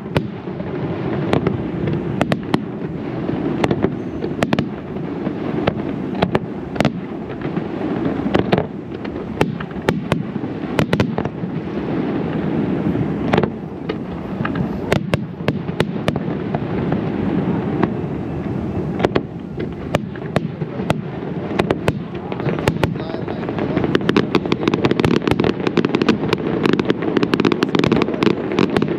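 Aerial fireworks display: shell after shell bursting in sharp, irregular reports over a dense low rumble. About three-quarters of the way through, the reports come thicker and faster into a rapid crackling barrage.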